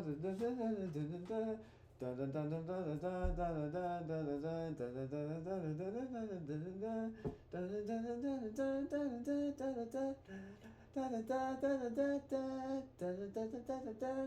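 A man humming a tune in short phrases, with brief pauses between them.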